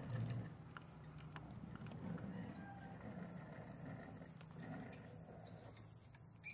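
Small birds chirping faintly in many quick, short, high falling notes, with a few sharp clicks in the first couple of seconds.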